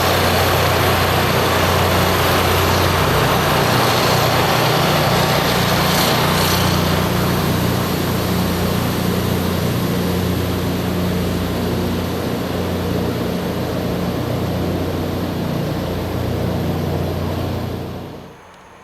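Rail grinding machine at work: a diesel engine hum under a loud, steady grinding hiss of the grinding wheels on the railhead. It eases a little after about eight seconds and cuts off sharply near the end.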